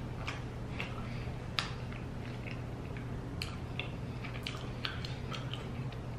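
Close-up chewing of a fried tortilla chicken roll-up in the mouth: scattered crisp crackles and mouth clicks, over a low steady hum.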